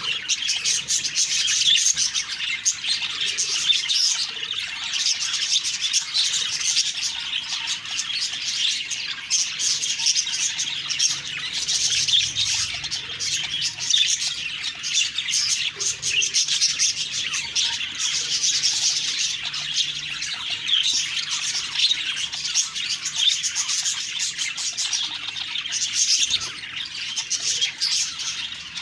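Budgerigars chattering and warbling in a steady stream of chirps and squawks.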